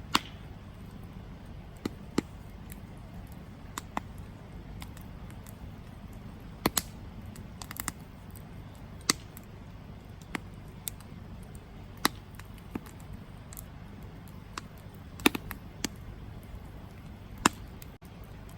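Wood campfire crackling, with sharp irregular pops and snaps over a steady low rumble. A few pops stand out louder: one right at the start, one about two-thirds of the way through, and one near the end.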